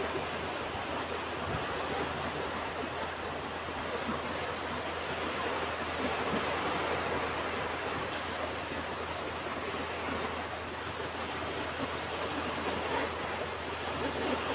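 Ocean waves washing onto a beach, a steady rushing surf noise that swells and eases gently.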